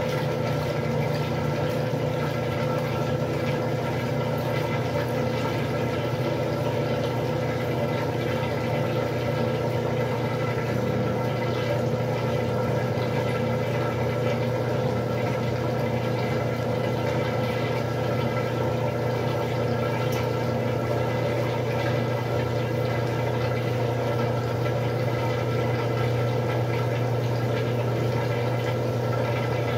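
Westinghouse washing machine running steadily: a constant motor hum with water moving inside.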